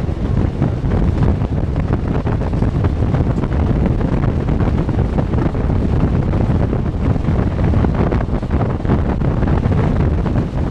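Wind buffeting the microphone over the steady rumble and irregular rattling of a passenger train running at speed, heard from on board the coach.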